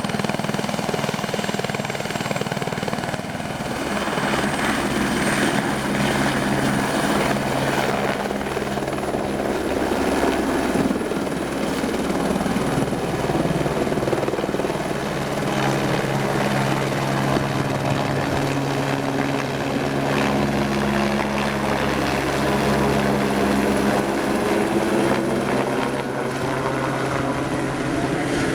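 Helibras Esquilo (AS350) helicopter running close by: a steady low rotor hum with a thin high turbine whine above it.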